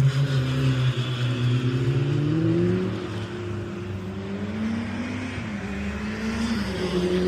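A rally car's engine accelerating through the gears, its pitch climbing and dropping back at each shift, with the sound fading somewhat about three seconds in.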